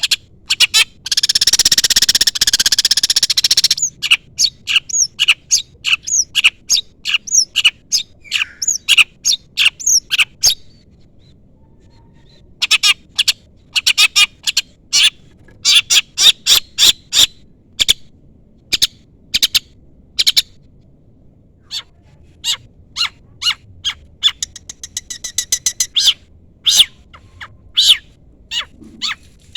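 Long-tailed shrike giving rapid series of sharp, high chirps, with a harsh rasping screech about a second in that lasts a couple of seconds, a short pause near the middle and a fast trill near the end. These are rival-challenge calls, the kind used to provoke another shrike into answering.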